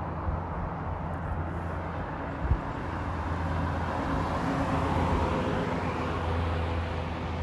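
Vehicle noise: a steady low engine hum, with a passing vehicle swelling up and fading away in the middle.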